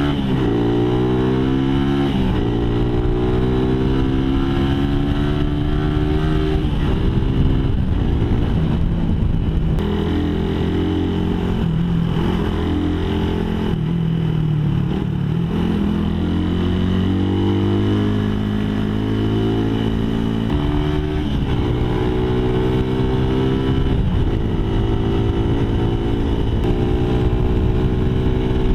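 Suzuki Raider 150's single-cylinder four-stroke engine running through an open aftermarket exhaust with a big elbow and big tip and no catalytic converter. Its revs fall and rise again and again.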